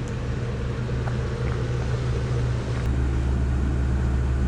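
Vehicle engine running steadily with a low drone that gets a little louder about three seconds in.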